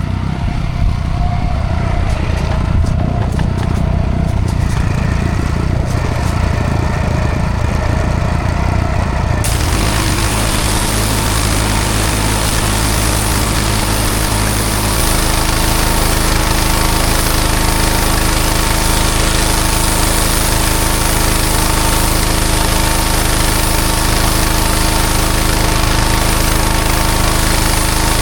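Engine-driven pressure washer running. About a third of the way in, a loud, steady hiss of high-pressure water spray joins the engine and carries on to the end.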